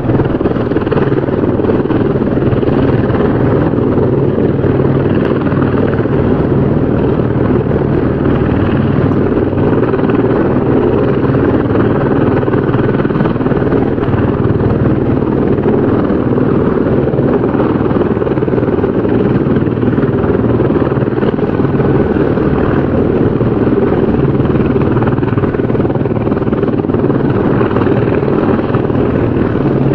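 Helicopter rotor and engine noise, running steadily at an even level throughout.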